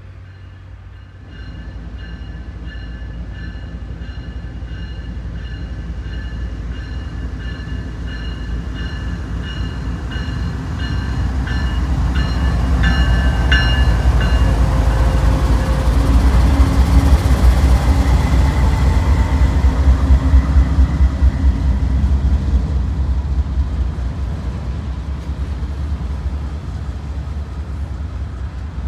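Freight train passing close by: diesel locomotives rumble in, loudest as they go by about halfway through, followed by the steady rolling of autorack cars. Higher pitched tones, broken at short regular intervals, sound until the locomotives pass.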